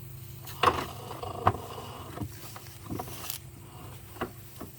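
Handling noise: a string of irregular knocks and a brief rustle as the recording device is moved about, over a low steady hum.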